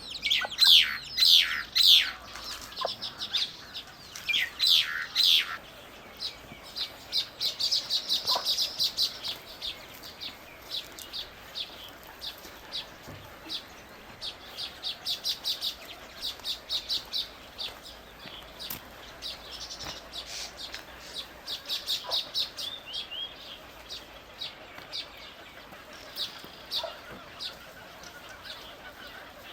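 Small birds chirping: quick runs of short, high chirps that each drop in pitch, loudest in the first few seconds.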